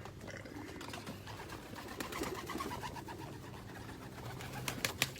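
Birds calling in low wavering notes over a steady low hum, with a few sharp clicks near the end.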